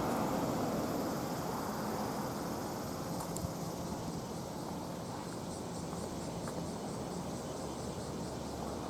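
A passing train's rumble dying away as it recedes, fading over the first few seconds into a steady low hum and outdoor background noise.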